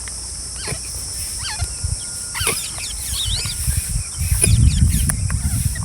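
Green parrots calling with short, scattered chirps that sweep up and down in pitch. A low rumble swells about four seconds in.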